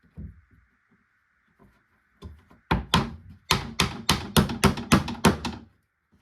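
Repeated blows on wood: a few light knocks, then about ten sharp strikes in quick succession, roughly three a second.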